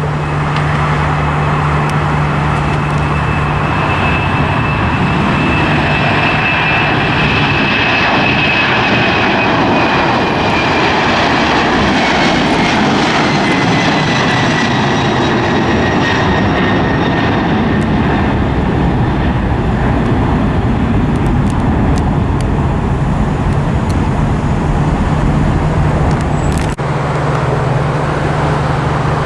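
Airliner's engines passing, with a loud, steady roar and a high whine that slowly falls in pitch as the plane goes by.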